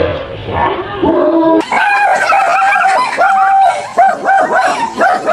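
A dog yipping and whining in a quick run of short, high-pitched cries.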